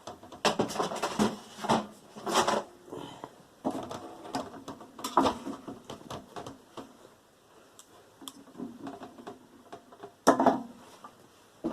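Irregular clattering, scraping and knocking of a microwave oven's metal parts being handled and pulled apart, with one loud knock about ten seconds in.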